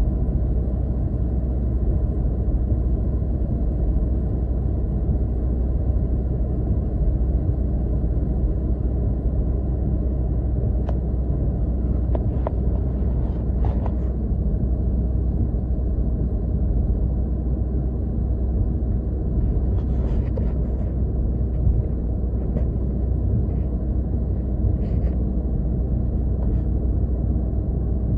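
Car driving, heard from inside the cabin: a steady low rumble of road and engine noise. A few faint light ticks come through about a third of the way in and again later.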